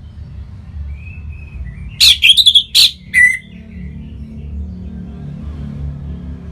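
Orange-headed thrush singing. A faint thin whistle comes first, then a burst of loud, sharp song phrases about two seconds in and a short call just after, over a steady low hum.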